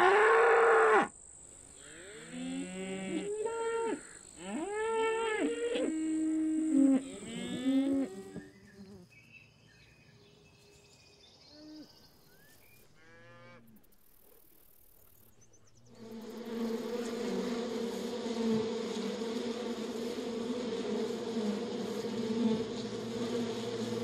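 Cattle mooing, several long calls over the first eight seconds or so. After a quiet stretch, a steady buzzing hum of honeybees sets in about two-thirds of the way in.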